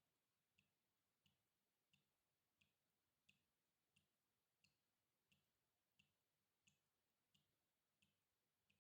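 Water drops falling one by one in a steady, even rhythm, about three drops every two seconds, each a faint short plink.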